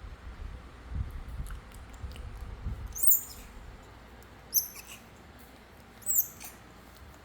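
Baby monkey squeaking three times, short and very high-pitched, about a second and a half apart. Low rumbling handling noise runs underneath for the first few seconds.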